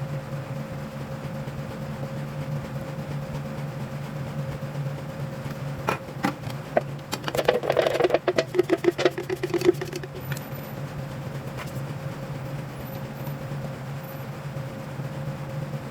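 A steady machine hum, with a few seconds of rapid clicks and clatter in the middle.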